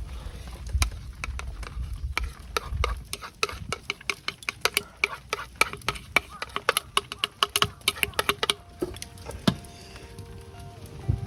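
Quick, irregular clicking and tapping of cooking utensils during camp cooking, several taps a second, thinning out near the end as soft background music comes in.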